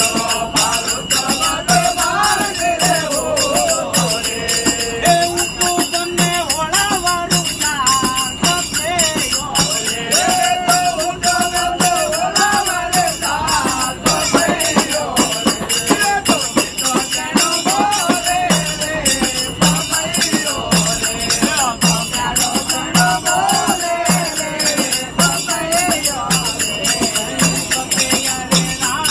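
Group devotional bhajan singing with rapid, continuous metallic jingling of hand percussion and a regular low drum beat.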